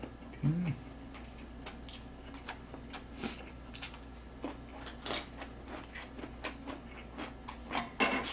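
Close-up eating sounds: irregular soft smacks and clicks of a mouth chewing rolled egg omelette, with a short hummed "mm" about half a second in and a louder click near the end.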